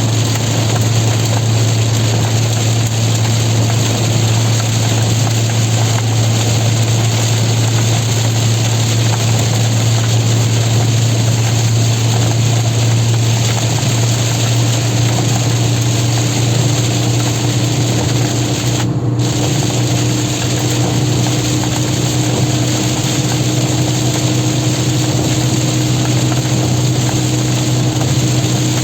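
Cabin noise of a Renault Twingo with its 16-valve D4F four-cylinder engine driving at highway speed in heavy rain: a steady low engine and road drone under a constant hiss of rain and tyre spray. The hiss dips briefly once, a little past halfway.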